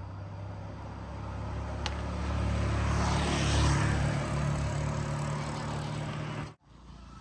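A motor running with a steady low hum and a whooshing noise that grows louder toward the middle, then cuts off suddenly about six and a half seconds in.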